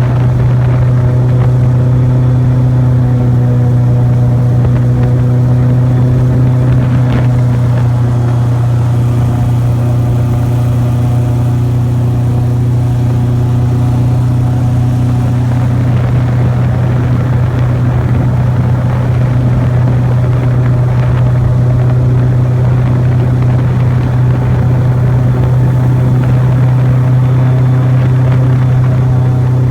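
Airboat's engine and propeller running steadily: a loud, even drone with a strong low hum.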